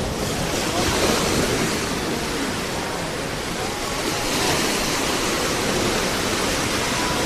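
Ocean surf breaking and washing up on a beach: a steady rush of waves that swells slightly about a second in and again around the middle.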